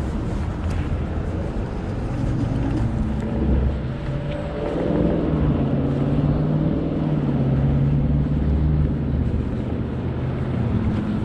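Road and wind noise from riding a Kaabo Wolf GT Pro electric scooter on a street. A steady low hum joins from about four seconds in and fades near the end.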